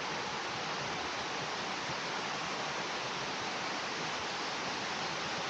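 Steady, even rush of water cascading down a waterfall.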